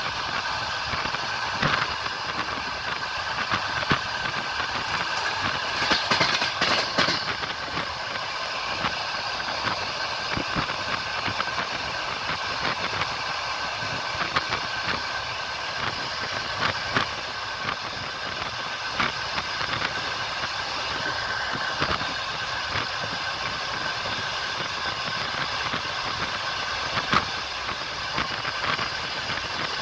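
Train wheels running on the rails: a steady rolling noise with occasional clicks of wheels over rail joints, louder for a moment about six seconds in.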